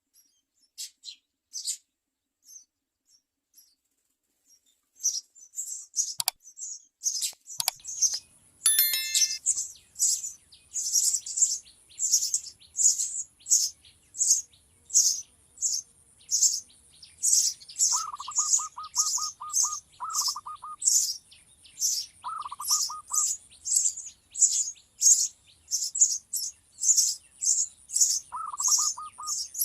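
Baby sparrow chirping, sparse at first and then steady and repeated at about two high-pitched chirps a second. A lower, rapid trill from another bird breaks in a few times in the second half.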